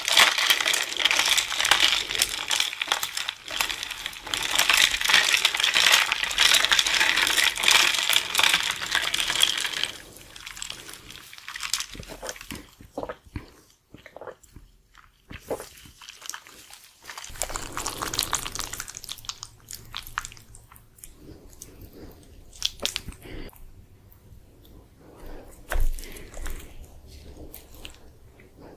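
Close-miked eating sounds: a woman chewing and biting spicy instant noodles and dumplings. About the first ten seconds are a dense, wet crackling, after which the sound thins to separate clicks and soft chewing.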